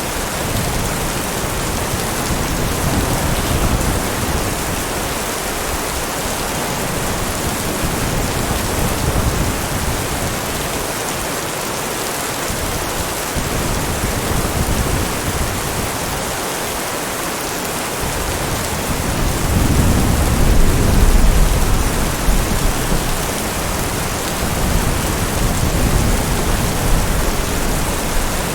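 Steady heavy rain falling, with a low rumble of thunder swelling up about two-thirds of the way through.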